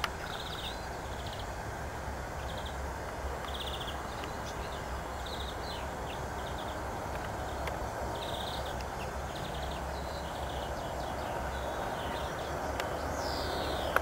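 Small birds chirping in short repeated bursts, with one falling whistle near the end, over a steady outdoor hiss and low rumble.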